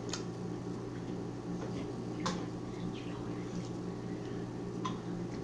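A few light clicks of cutlery and dishes at a meal, spread across a few seconds, over a steady low hum.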